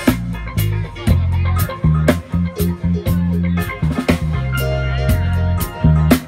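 Live reggae band playing: a heavy bass line of held notes under regular drum hits and guitar.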